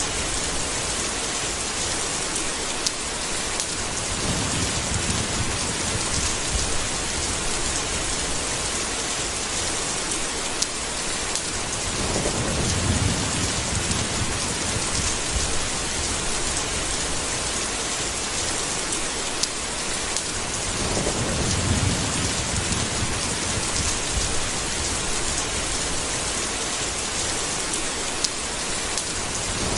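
Steady heavy rain, with low rumbles of thunder swelling up three times, about every eight or nine seconds.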